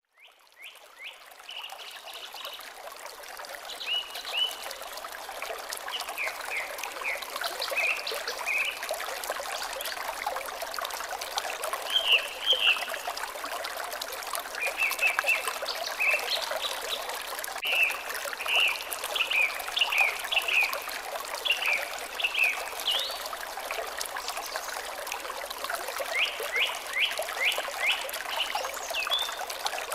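Water trickling steadily, fading in over the first couple of seconds, with birds calling in short repeated chirps throughout.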